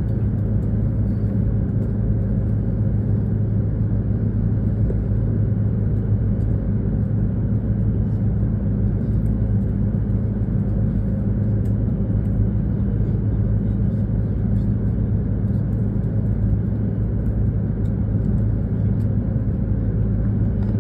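Steady low hum inside a stopped Shinkansen carriage, with an even mains-like drone and no changes.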